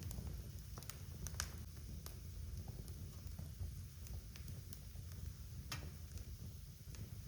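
Wood fire burning in a fireplace: a low steady rumble of the flames with scattered sharp crackles and pops, a few louder ones about a second in and near six seconds.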